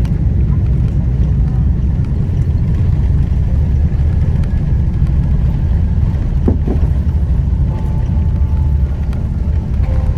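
Cabin noise of an Airbus A330 airliner during landing: a steady low rumble of engines and airflow.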